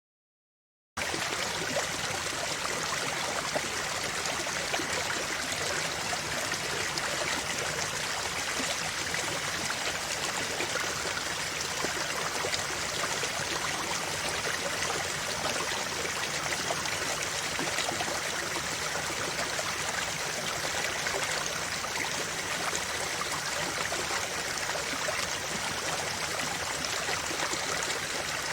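Steady rushing and trickling of a flowing river stream. It starts suddenly about a second in, after a moment of dead silence, and then runs on evenly.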